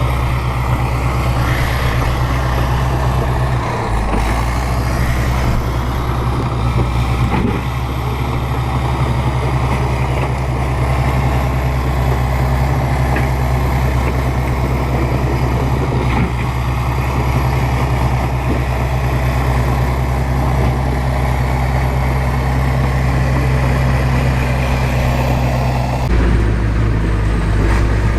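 Bulldozer's diesel engine running steadily, with a few brief knocks. The sound changes abruptly near the end.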